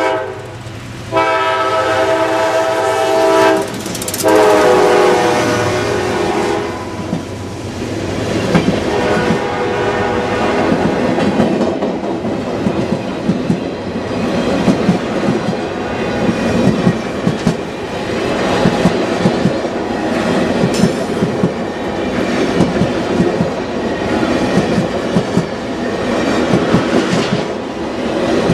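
Freight locomotive horn sounding two blasts, its pitch dropping as the lead GE Dash 8-40CW units pass, then the train's cars rolling by with steady rumble and clickety-clack of wheels over rail joints.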